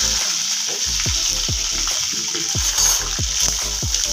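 Curry leaves and shallots sizzling in hot oil with mustard seeds in a metal kadai: a steady frying sizzle, with a steady beat of background music underneath.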